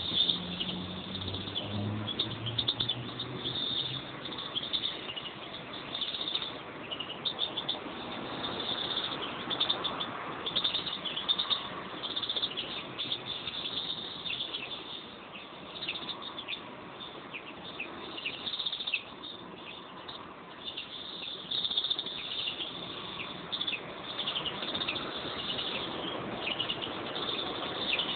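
A pair of European greenfinches chirping and twittering, with many short calls in quick succession and no long pauses.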